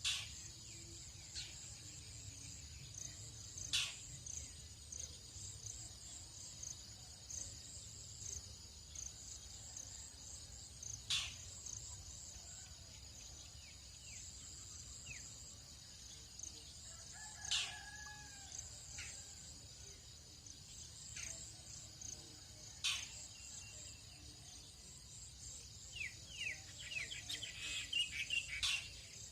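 Tropical dawn chorus: a steady high trilling of insects with sharp single bird calls every few seconds. A distant rooster crows briefly midway, and a quick flurry of falling bird chirps comes near the end.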